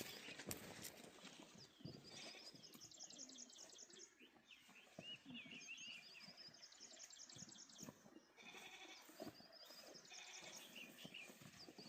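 Faint animal calls: quick runs of high notes, repeated three times, over light rustling and soft clicks.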